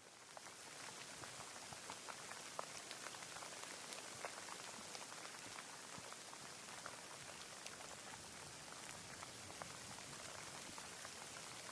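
Steady rain: a dense hiss of falling rain with many separate drops tapping, swelling up to full strength within the first second.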